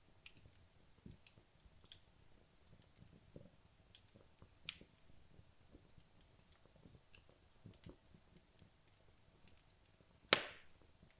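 Wood logs burning in a fireplace, mostly quiet with scattered faint crackles. There is a sharp pop about halfway through and a louder pop near the end.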